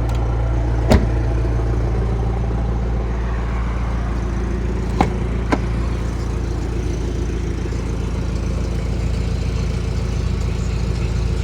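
Steady low engine rumble, with three sharp clicks: one about a second in, then two half a second apart around five seconds in.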